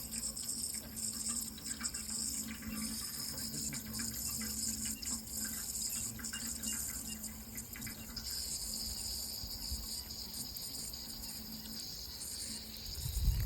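Steady running water, with a continuous high insect chorus over it.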